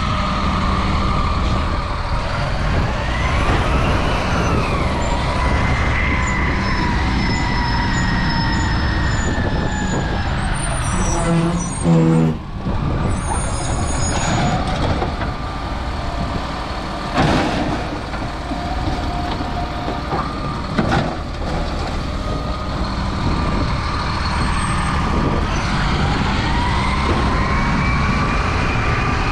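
Diesel engine of an Autocar refuse truck with a Labrie Automizer side-loader body running under load. Its pitch rises and falls as the automated arm works, with a loud burst about twelve seconds in and sharp knocks twice later on.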